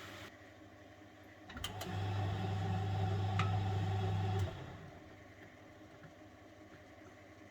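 1971 Constructa Garant 491 washing machine partway through a boil wash. A steady hiss cuts off just after the start. About a second and a half in, with a couple of clicks, the drum motor starts and hums steadily for about three seconds, then stops: one drum turn of the wash rhythm.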